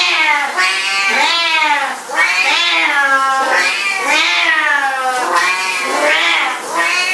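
Domestic cat giving a long run of drawn-out meows, about eight calls one after another with barely a break, each rising and then falling in pitch.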